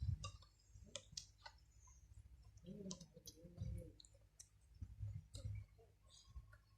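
Soft eating sounds while chewing instant noodles: irregular small wet mouth clicks and lip smacks, with a brief closed-mouth hum about three seconds in.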